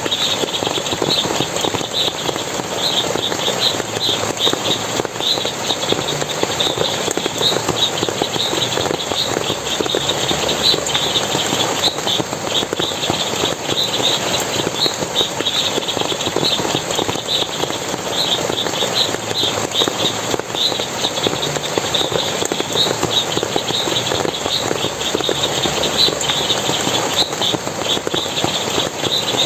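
Forest water splashing as a steady rushing hiss, with many short, high chirps repeating throughout.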